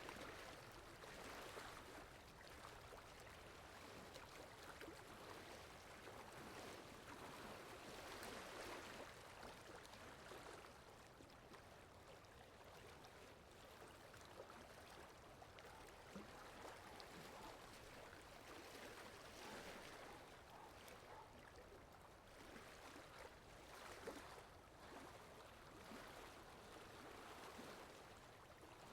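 Soft rain falling in a forest: a faint, steady hiss with slow swells every several seconds.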